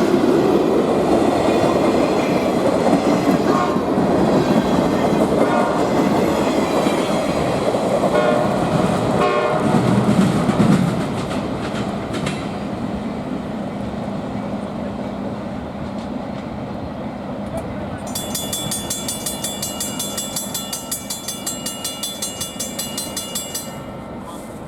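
Train rolling past, its wheels clicking over the rail joints, loud for the first eleven seconds or so and then fading as it moves off. Near the end comes a high, rapidly pulsing ringing that lasts about five seconds.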